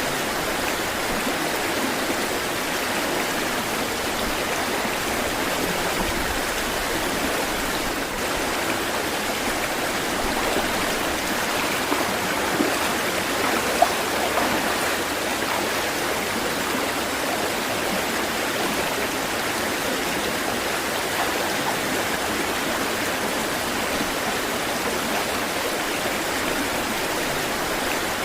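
Running water of a stream, a steady unbroken rush with no swells. Two brief sharper sounds stand out about halfway through.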